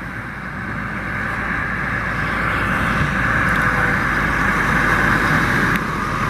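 Twin 300 hp Suzuki outboard motors running and growing steadily louder as the boat powers away, trimmed high for the shallow sandbank, then dropping slightly near the end.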